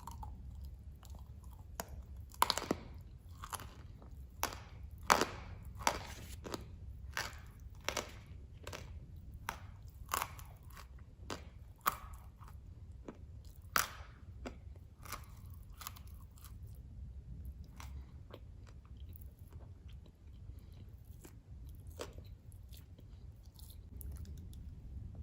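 A person crunching and chewing dry, hard clay blocks (khawa). Sharp, brittle crunches come thick and fast for the first fifteen seconds or so, then thin out to fainter, occasional ones.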